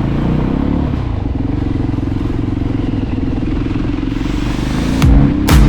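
Voge 300 Rally's single-cylinder engine running at a fairly steady pitch. About five seconds in, electronic music with hard, loud beats comes in over it.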